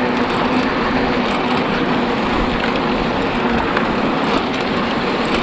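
Steady rushing noise of a mountain bike being ridden over rough ground: the tyres roll and air rushes past an action camera that is riding along.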